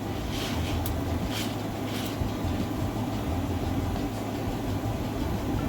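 Steady low hum of background machinery, with a few short rustles of craft material being handled in the first two seconds.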